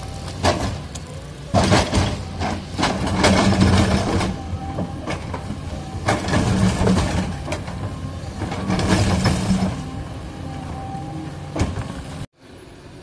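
Caterpillar 320D excavator's six-cylinder diesel working hard, surging several times as the hydraulics take load, with the bucket scraping and knocking against rock. The sound breaks off abruptly near the end and comes back quieter.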